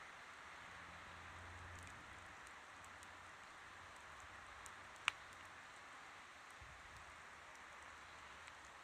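Wood campfire burning with a soft, steady hiss and scattered small crackles, and one sharp pop about five seconds in.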